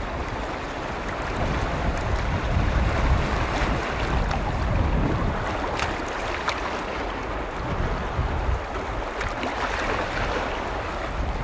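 Waves on a large freshwater lake, a steady wash of water with a few small splashes, with wind rumbling on the microphone.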